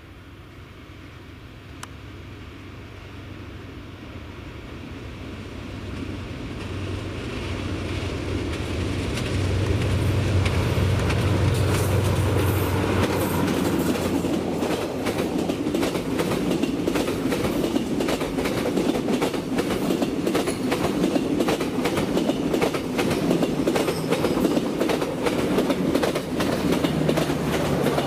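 Vietnam Railways diesel-hauled passenger train approaching and passing close by. The locomotive's diesel engine hum grows steadily louder over the first ten seconds or so. Then the coaches roll past with a rapid, continuous clickety-clack of wheels over the rail joints.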